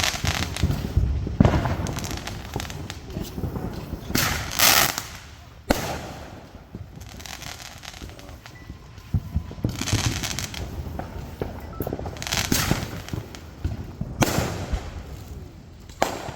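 Consumer fireworks from a single-fuse chained show going off in quick succession: many sharp bangs, with a longer hissing burst every few seconds.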